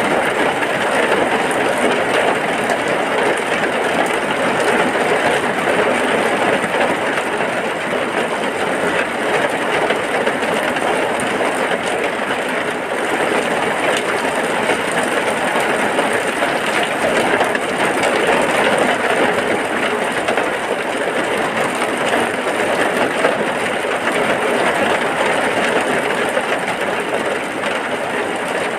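Heavy rain falling steadily, a dense even wash of noise that doesn't change.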